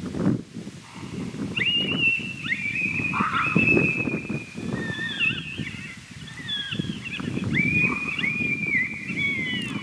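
Electronic predator caller playing high-pitched whining animal calls, phrases of drawn-out cries that slide down in pitch at their ends, over wind rumbling on the microphone.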